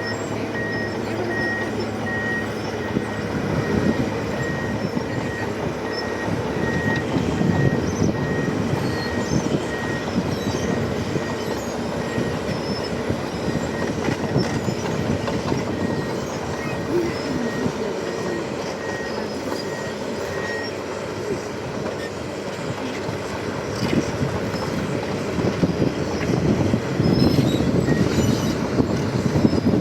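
Liebherr bulldozer working, its diesel engine running under load while the steel tracks clank and squeal. A reversing alarm beeps steadily and stops about two-thirds of the way through.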